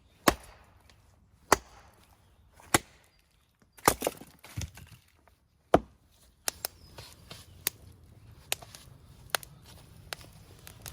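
Wood being chopped: sharp strikes about one every second and a quarter, a quick double strike about four seconds in, then lighter, quicker knocks.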